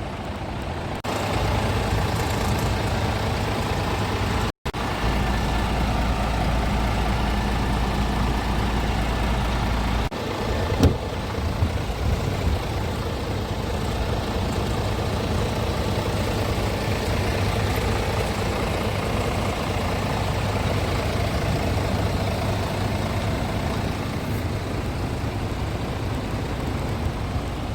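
Scania R450 truck's 13-litre inline-six diesel engine running steadily, heard across several cut shots, with a short knock about eleven seconds in.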